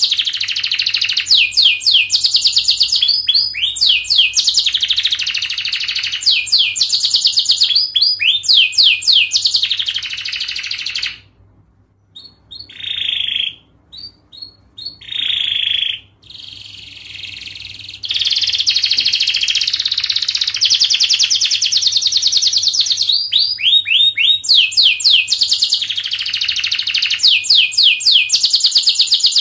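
Domestic canary singing long, fast, tightly spaced trills of repeated high notes. About a third of the way in, the song drops to a few short notes for several seconds, then the rapid trills resume.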